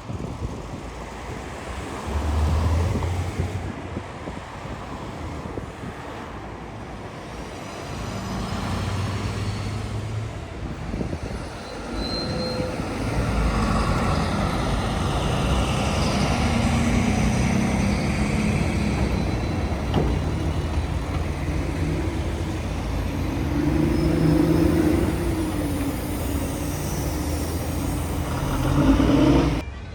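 City street traffic: a steady wash of passing vehicles with the low engine hum of heavy vehicles. It grows louder about halfway through and peaks near the end.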